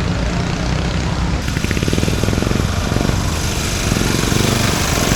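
Small engines of racing riding lawn mowers running hard, with a fast, even firing pulse. The sound changes abruptly about a second and a half in.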